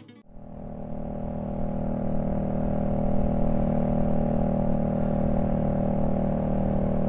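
Honda Shadow V-twin motorcycle engine running steadily at cruising speed, fading in over the first second or two and then holding level.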